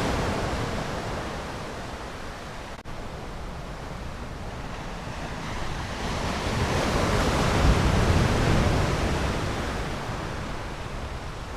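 Ocean surf: waves washing in and drawing back as a continuous hiss, with a swell that builds to its loudest about eight seconds in and then eases. A brief dropout cuts the sound for an instant about three seconds in.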